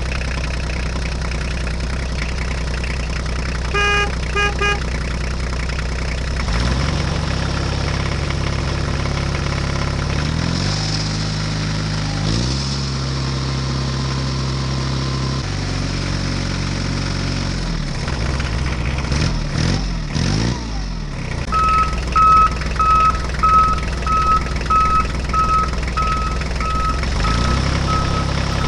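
Tractor engine running, its pitch stepping up and down as it revs. A few short beeps come about 4 s in, and in the second half a steady series of electronic beeps, about two a second, like a reversing alarm.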